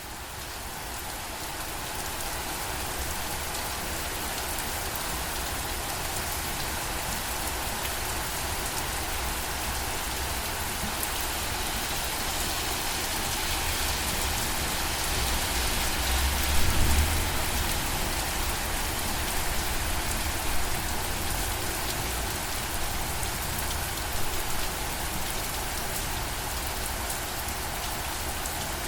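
Steady rain falling, with occasional heavier drops on a surface. It fades in over the first couple of seconds, and a brief low rumble comes about halfway through.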